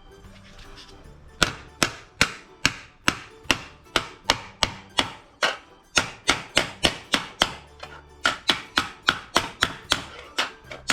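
Hammer blows on a steel sheet patch panel being shaped, a steady run of sharp ringing strikes about two to three a second, starting about a second and a half in with a brief pause near eight seconds.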